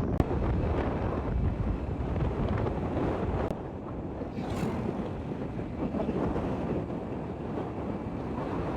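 Wind rushing over the microphone of a rider on a moving motorcycle, a steady low rumble.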